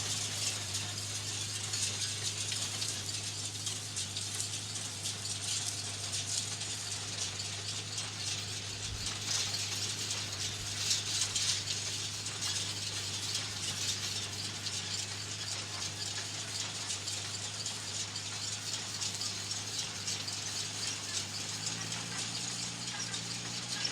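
Farm machinery working at a distance: a steady low engine hum under a dense, continuous crackling rattle.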